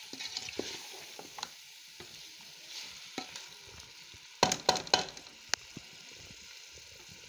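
Chicken pieces and green peas sizzling in masala in a pot, bhuna-fried in oil before any water goes in, while a spatula stirs through them. A cluster of sharp scrapes and knocks from the spatula against the pot comes about four and a half seconds in, with one more click just after.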